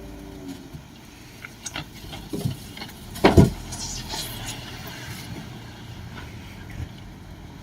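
Shantui DH17C2 bulldozer's diesel engine running steadily, with a few sharp knocks, the loudest about three seconds in.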